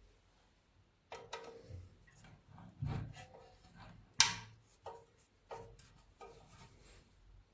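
Irregular light knocks and clicks of hard parts being handled on a workbench, with one sharper clack about four seconds in.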